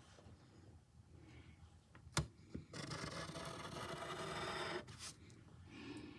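Faint strokes of a drawing tool rubbing and scratching across paper while a ball is drawn, with a sharp tap about two seconds in.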